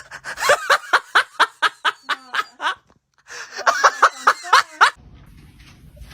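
Person laughing hard in quick repeated "ha" pulses, about four a second, in two bouts separated by a brief pause.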